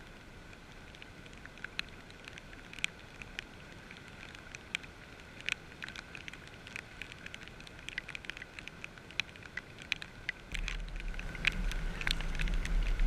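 Irregular light ticks of raindrops striking the camera's waterproof housing, over a steady hiss of surf. About ten seconds in, wind starts buffeting the microphone with a low rumble.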